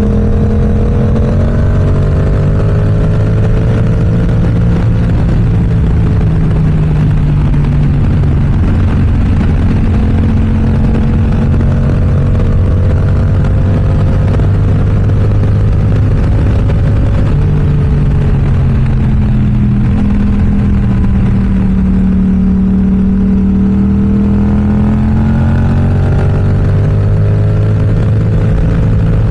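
Yamaha R7's parallel-twin engine through an aftermarket M4 exhaust, pulling steadily at cruising revs, the pitch easing down and climbing again with the throttle, with a steady rush of noise underneath.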